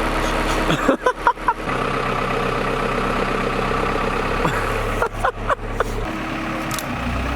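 A car engine idling steadily, broken about a second in and again about five seconds in by brief clusters of short clicks and knocks.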